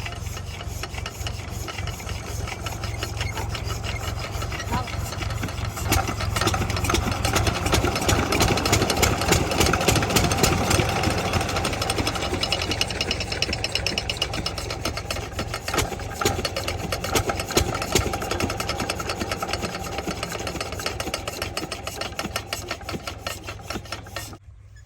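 Stationary diesel engine of a water pump set running with a fast, even knocking beat, getting louder about six seconds in. The sound breaks off abruptly near the end.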